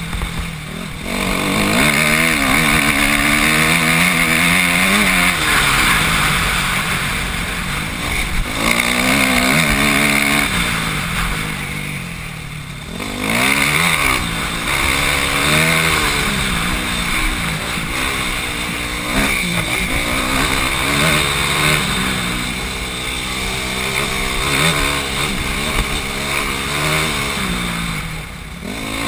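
Dirt bike engine heard from the rider's helmet camera, revving up and falling back again and again as the rider works the throttle along a dirt trail. It eases off briefly a few times, including once near the end.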